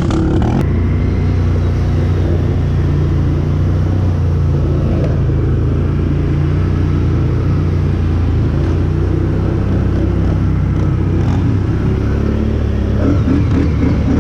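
Can-Am 1000 ATV engine running steadily under way, a loud, even engine note with little change in pitch.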